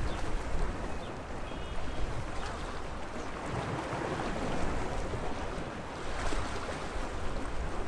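Sea waves washing steadily against the shore in an even rushing wash that swells and eases.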